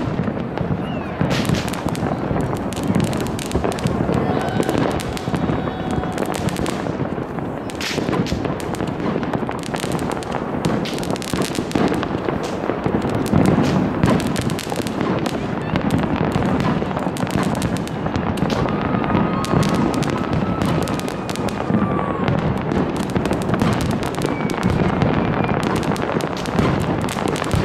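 A dense, continuous barrage of New Year fireworks going off all at once: countless overlapping bangs and crackles with no break. A few faint gliding whistles run through it.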